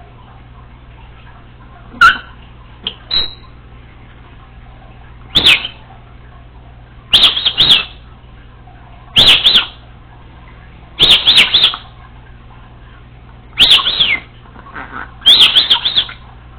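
Congo African grey parrot giving a series of short, high chirping calls with a quick up-and-down wobble in pitch. One faint call comes about two seconds in, then louder ones follow roughly every two seconds.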